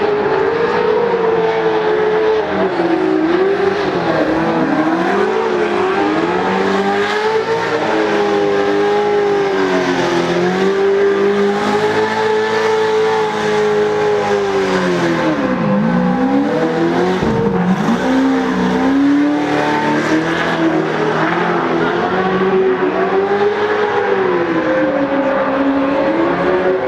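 Stadium Super Truck V8 engines running hard and revving up and down continually, the pitch rising and falling without a pause, with two deep drops and quick climbs in revs about two-thirds of the way through.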